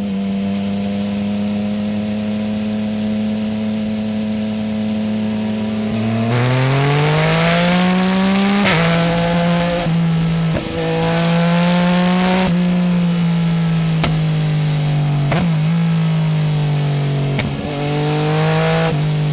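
Yamaha Tracer 900 GT's three-cylinder engine through a full Roads Italia aftermarket exhaust without dB-killer, under way: it holds a steady pitch for about six seconds, then accelerates hard, the pitch climbing and dropping sharply at each upshift, twice, before easing off with brief dips at further gear changes.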